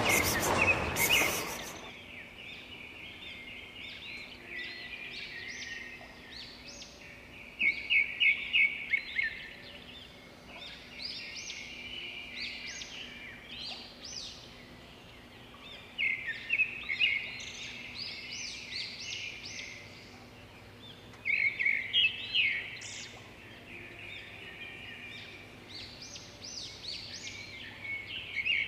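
Small birds chirping in repeated bursts of quick high notes, the loudest a rapid run of chirps about eight seconds in and more around sixteen and twenty-two seconds. A loud rushing noise fades out in the first second or two.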